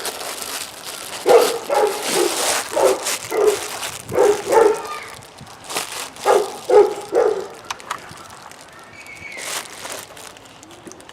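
A dog barking repeatedly, about a dozen short barks in quick clusters, stopping a little past halfway.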